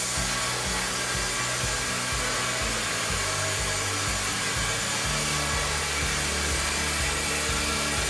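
Power saw cutting through timber, a steady high hiss, with background music of sustained low notes underneath.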